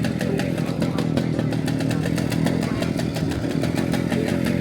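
Motorcycle engine running steadily, with a rapid, even ticking of about eight to ten beats a second.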